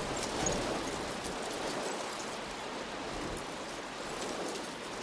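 Steady rain falling: an even hiss with faint pattering ticks.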